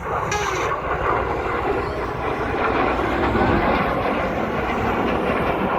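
Jet noise from BAE Hawk T1 display jets flying overhead: a steady turbofan rush that grows slightly louder toward the end.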